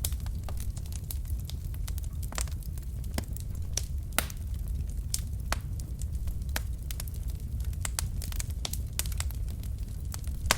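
Wood fire burning in a fireplace: a steady low rumble of flames with irregular crackles and occasional louder pops from the logs.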